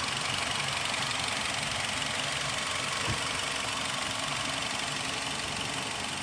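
Nissan X-Trail engine idling steadily, with a single short click about halfway through.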